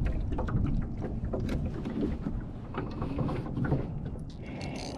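Strong wind buffeting the microphone as a heavy, uneven rumble, with small scattered clicks and knocks over it.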